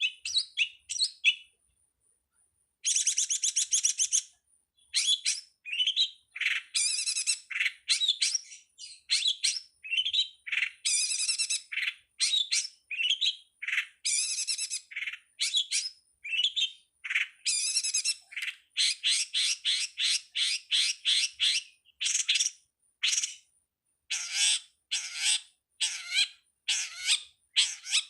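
Long-tailed shrike (pentet) singing: a fast, varied run of chirps, whistles and harsh buzzy chattering notes, with a pause of about a second and a half near the start.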